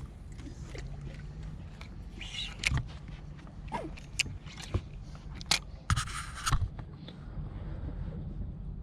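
Scattered knocks, clicks and short scrapes of handling on a boat, over a steady low rumble.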